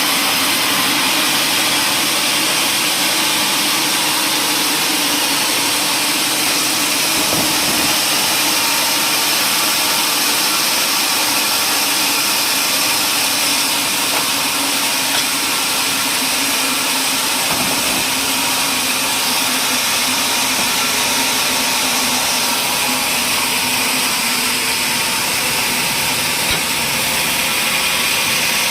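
Woodworking machinery running steadily with a loud, even mechanical noise.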